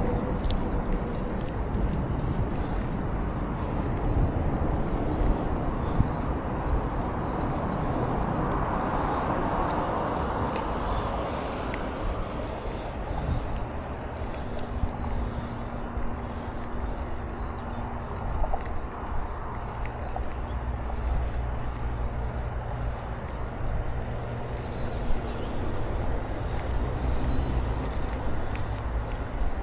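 Wind buffeting the microphone over the rolling noise of a bicycle on a trail: a steady low rumble that swells for a few seconds and then eases. Faint high chirps come now and then, and a faint steady hum sits under the middle stretch.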